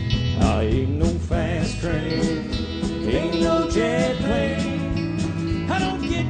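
Country band playing an instrumental solo break: a lead instrument plays sliding, bending notes over a steady bass and rhythm section.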